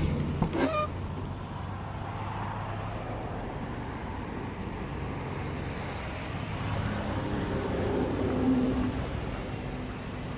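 Steady motor-vehicle and traffic noise, with a brief sharp click about half a second in and a slow swell in level near the end.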